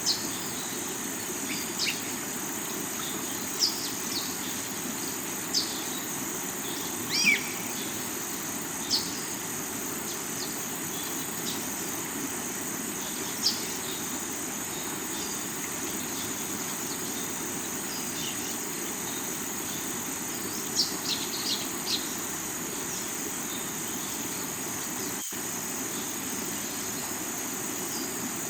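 Steady rushing of a rocky river with a constant high drone of insects, crickets among them. Short bird chirps come through now and then, with a louder falling call about seven seconds in. The sound drops out for a split second near the end.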